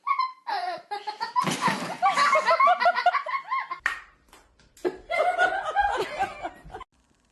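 People laughing hard in two bouts, the first and loudest right away, the second after a short pause about five seconds in.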